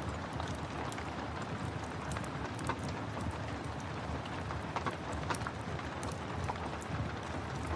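Steady rain, with a fireplace fire crackling in scattered sharp pops over it.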